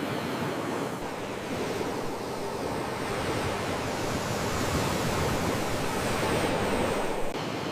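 Sea waves washing on the shore: a steady rushing noise that swells slowly toward a peak and drops off sharply near the end.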